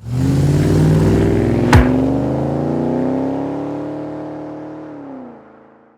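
A car engine revving and accelerating, its pitch rising, with one sharp crack a little under two seconds in; the sound then fades away, its pitch dropping just before it dies out.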